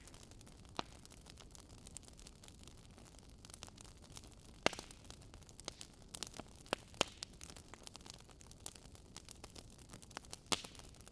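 Wood campfire burning with a soft steady hiss and irregular sharp crackles and pops, the loudest snaps about five, seven and ten seconds in.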